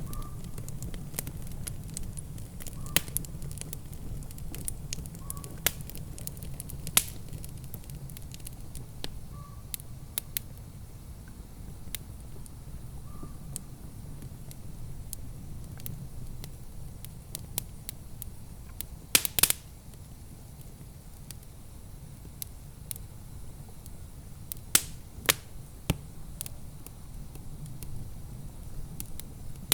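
Wood fire crackling in a fireplace: irregular sharp pops and snaps over a low steady rumble, with a quick cluster of loud pops about two-thirds of the way through.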